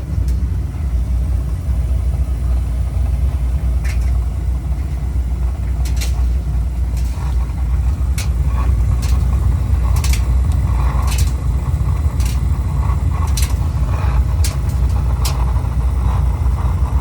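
Oil burner on a residential boiler running with a steady low rumble, with irregular sharp clicks and, in the second half, a rough rasping noise. The technician traces the strange noise and the burner's shutting down to a stripped pump coupling between the burner motor and the fuel pump.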